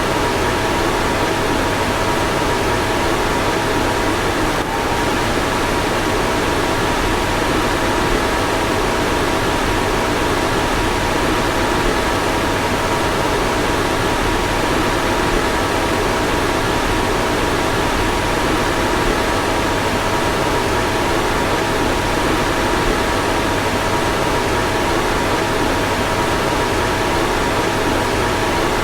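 Car fan running steadily: an even rush of air with a low hum and faint steady whining tones, and a faint tick about five seconds in.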